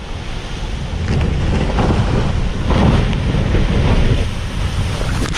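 Loud, steady wind buffeting the microphone over a low rumble.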